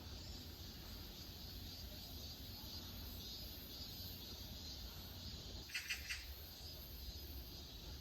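A bird gives a quick run of a few high chirps about six seconds in, over faint mountain-trail ambience with a low wind rumble.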